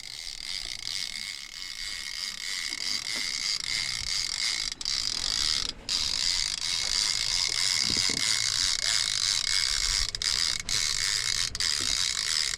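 Fishing reel ratcheting steadily with a dense, high-pitched whir as line runs under load from a hooked shark, with a brief break about six seconds in.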